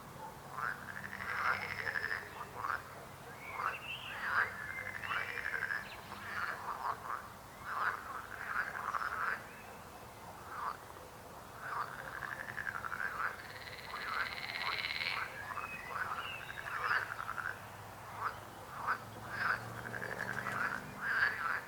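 Chorus of many frogs croaking, short calls overlapping without a break, with a longer buzzy, pulsed call about fourteen seconds in.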